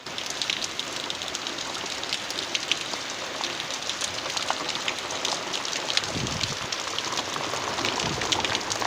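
Steady rain falling and pattering on surfaces close by: a continuous hiss with many individual drops ticking sharply.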